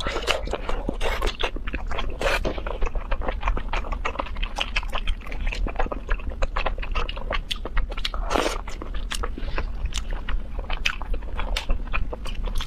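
Close-miked chewing and biting of food, a dense run of small wet smacks and crunchy clicks.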